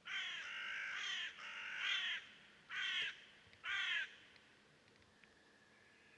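A bird calling loudly four times in about four seconds: two long calls, then two short ones.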